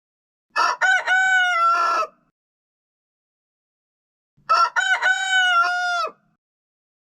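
A rooster crowing twice, each crow about a second and a half long, with a pause of a couple of seconds between them.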